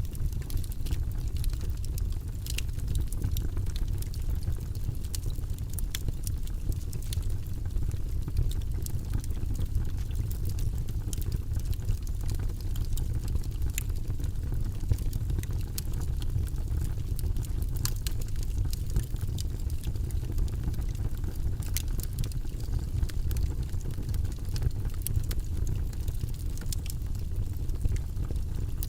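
Wood fire burning in a fireplace: a steady low rumble with frequent small, sharp crackles and pops scattered throughout.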